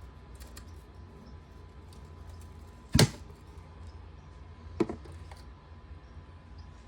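Two sharp knocks, a loud one about three seconds in and a softer one about two seconds later, over a steady low hum.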